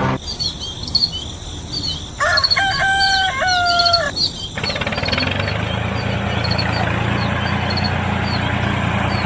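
A rooster crows once, for about two seconds, starting about two seconds in, over small birds chirping repeatedly. About halfway through, a steady low hum with noise over it takes over.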